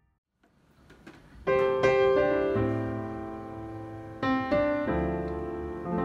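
Background piano music. After a brief silent gap near the start, held piano chords come back in about a second and a half in.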